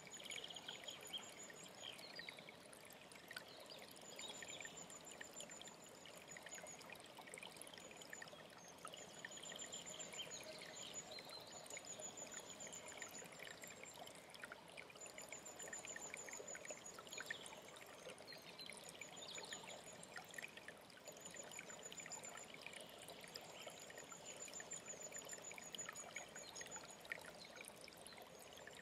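A mountain stream running steadily, with songbirds over it: a very high, thin trill lasting a couple of seconds, repeated over and over, and scattered lower chirps.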